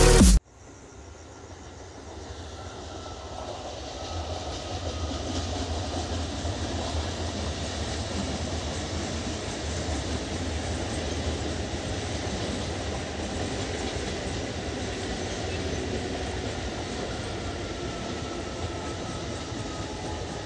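MEDHA electric multiple unit local train running slowly across a steel girder bridge: a steady rumble of wheels on rails that builds over the first few seconds and then holds. A faint whine comes and goes.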